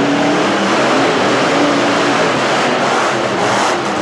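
Monster truck engine running loud, a dense sustained noise that eases off at the end.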